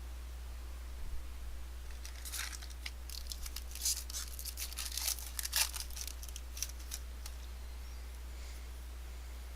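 A foil trading-card pack being torn open and its wrapper crinkled: a cluster of sharp crackles lasting about five seconds, starting about two seconds in, over a steady low hum.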